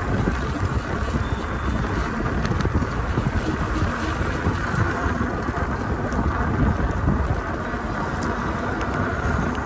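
Wind buffeting the microphone in a steady, dense rush while riding a bicycle.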